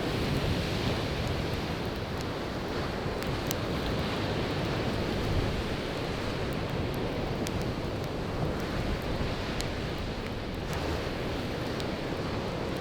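Ocean surf washing and rushing onto the shore in a steady roar, with a wood campfire crackling over it in a few sharp, scattered pops.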